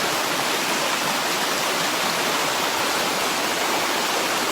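Rain-swollen creek water rushing over rocks: a steady, even rush.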